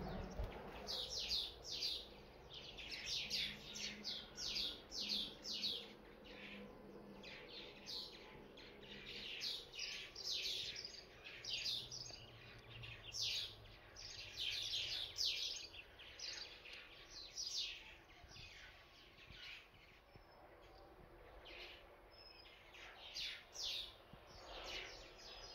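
Small birds chirping: many short chirps, each falling in pitch, in quick runs that thin out about two-thirds of the way through.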